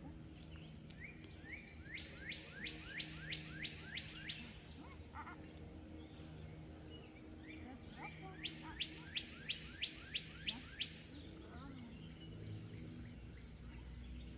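A songbird singing two runs of about eight quick down-slurred notes each, about three a second, with a pause of a few seconds between the runs.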